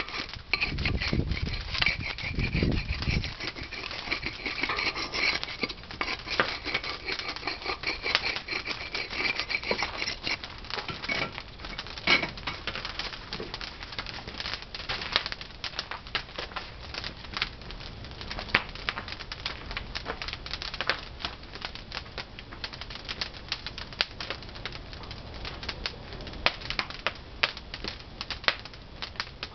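Pine firewood burning in a traditional wood-fired kiln, crackling with many irregular sharp snaps and pops. A low rumble runs under it for the first few seconds.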